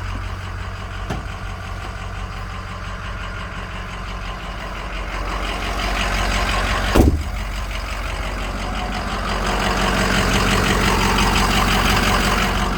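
A Ford 6.0-litre Power Stroke V8 turbo diesel idling steadily, with a single loud thump about seven seconds in.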